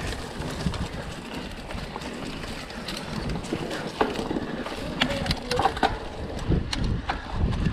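Mountain bike riding on a dirt trail, heard from a GoPro: wind buffeting the microphone with a low rumble, and sharp clicks and rattles of the bike over rough ground, more frequent in the second half.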